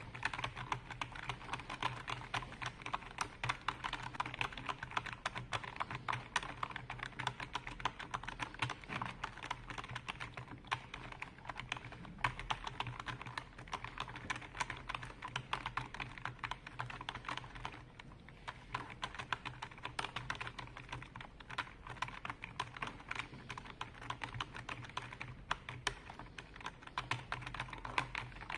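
Typing on a computer keyboard: fast, continuous key clicks, easing briefly about eighteen seconds in.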